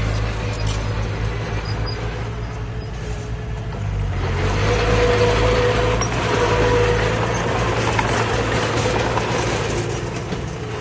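Heavy diesel engine of earthmoving machinery running steadily. From about four seconds in it works harder and grows louder, with a whining tone over the drone, then eases off near the end.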